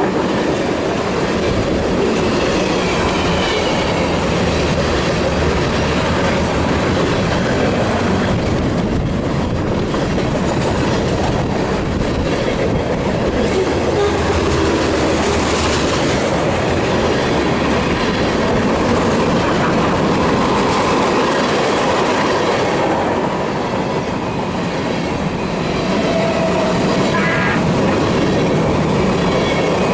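BNSF freight train rolling past, a steady loud rumble with the clickety-clack of wheels over rail joints. A brief thin wheel squeal comes near the end.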